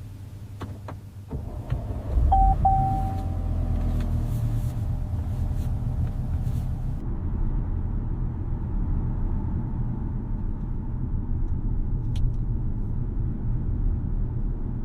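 A few faint clicks, then about two seconds in a Range Rover's engine starts with a brief tone and settles into a steady low idle.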